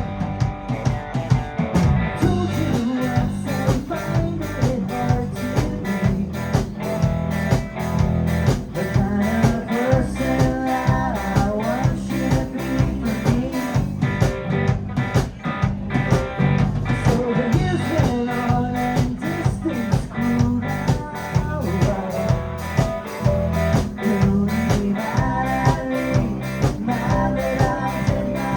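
A rock band playing live: guitar over bass and a drum kit keeping a steady beat.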